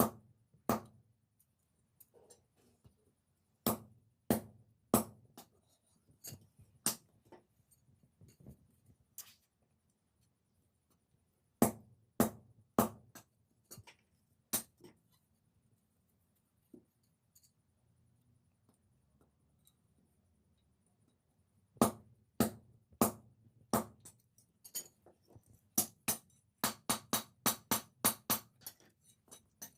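Hammer striking metal on an anvil while forging a blade: irregular single and paired blows with pauses, then a quicker run of about three to four blows a second near the end.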